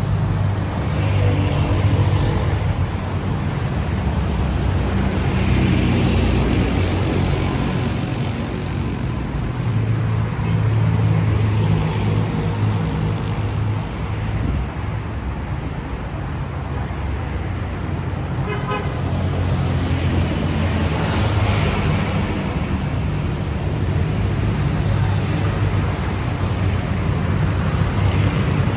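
City street traffic: engines running steadily and cars passing one after another, with a brief car-horn toot about two-thirds of the way through.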